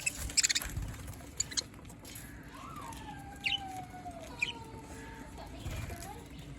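Budgerigars chirping, with sharp short calls scattered through and a long warbling call that rises and then slowly slides down in pitch.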